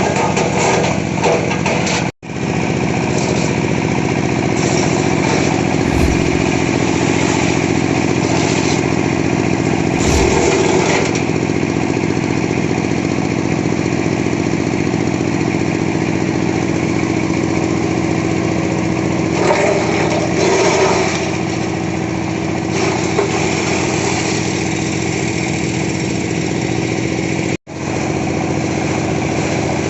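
Small engine-driven wood crusher running steadily at a constant speed, with two brief cut-outs, one about two seconds in and one near the end.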